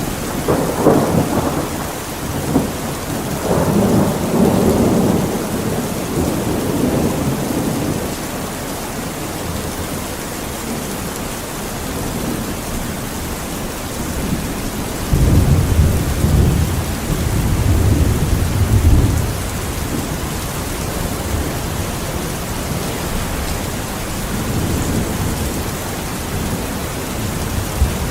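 Steady rain with rumbles of thunder: one long roll at the start and another about halfway through.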